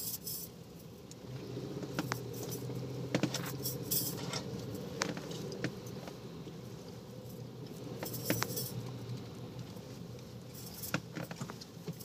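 Low hum of the truck's engine heard from inside the cab as it creeps along slowly, with scattered light clicks and jingles.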